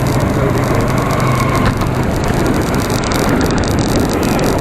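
A motor vehicle running close by on the road, a steady low engine hum that fades about two seconds in, over a constant rushing road noise.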